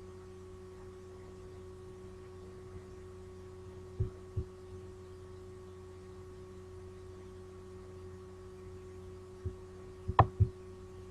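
Steady electrical hum made of a few fixed tones in the recording, broken by a couple of short clicks about four seconds in and two sharper, louder clicks about ten seconds in.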